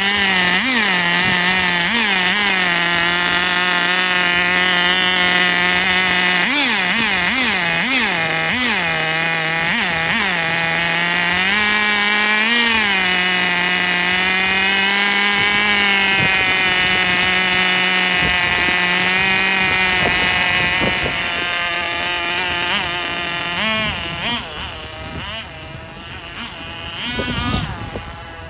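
Small glow-fuel (nitro) engine of a radio-controlled car running loudly at a high-pitched idle just after starting, with repeated short throttle blips that rise and fall in pitch. About 21 s in it gets quieter and uneven, with a few more blips near the end.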